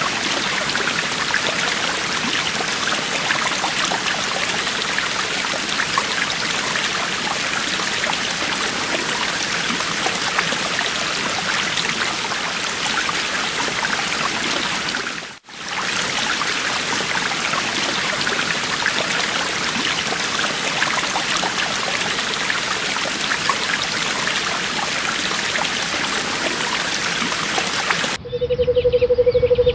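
A forest stream running and trickling over stones in a steady wash of water noise, cut off for a moment about halfway. Near the end it switches abruptly to a low, held, pulsing bird call.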